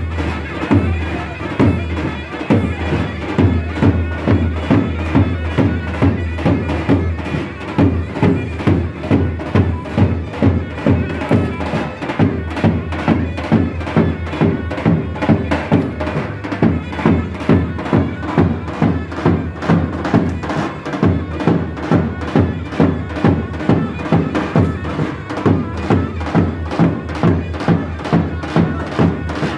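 Turkish folk music: a shrill, bagpipe-like reed wind instrument playing over a steady, fast drum beat.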